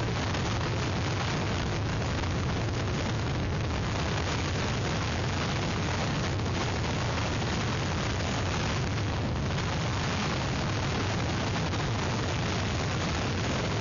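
Hurricane wind buffeting an outdoor webcam's microphone: a steady, heavy rush of noise with a strong low rumble.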